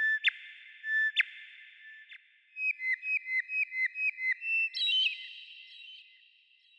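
Songbird singing clear whistled notes, each trailed by heavy reverberation. A few single notes open it, then about nine quick repeated notes follow at roughly four a second, then a higher jumbled phrase about five seconds in.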